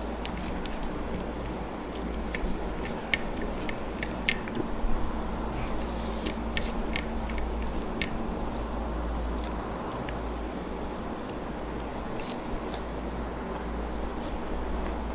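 A person chewing a mouthful of rice and dal, eaten by hand, with wet smacking mouth clicks. Fingers squish and gather rice on a plastic plate over a steady low background hum.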